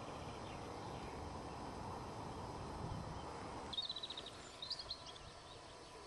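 Steady low rumbling outdoor noise, then about two-thirds through a small bird's rapid high trill, followed by a few higher chirps.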